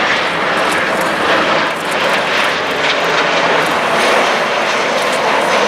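Jet airliner passing close by on a landing approach, its engines loud and steady.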